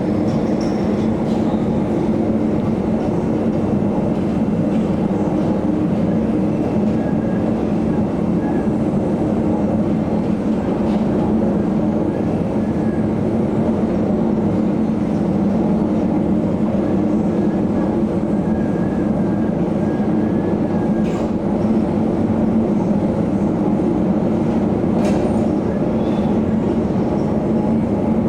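Steady loud rumble and drone of the ferry Maersk Anglia's engines and hull vibration at sea, with a few faint clicks and rattles.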